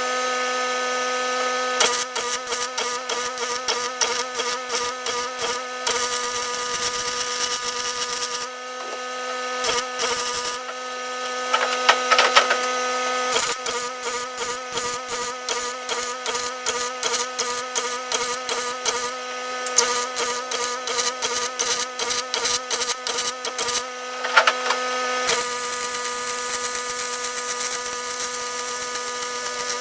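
Welding on aluminum plate: a steady arc hiss with a hum, broken for long stretches into a quick even rhythm of about three to four pulses a second, and stopping briefly a couple of times near the middle.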